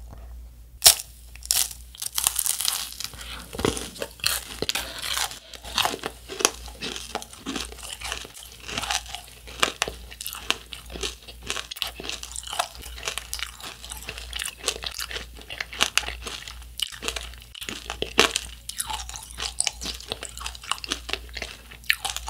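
A child biting into and chewing a macaron tanghulu, a macaron under a thin shell of hardened sugar-syrup candy, the shell cracking and crunching between the teeth. The crunches come irregularly and densely, with sharp cracks about a second in and again near the end.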